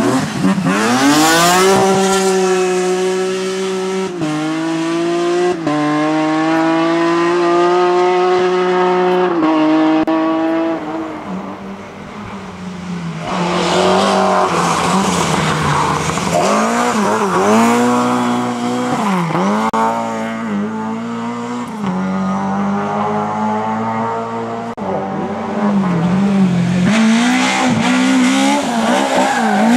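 Rally car engines at full effort on a rallysprint stage. A car holds high revs with its pitch climbing slowly and stepping at a few gear changes, then fades about twelve seconds in. After that an engine revs up and down again and again, as a car lifts off and accelerates through corners, and climbs hard near the end.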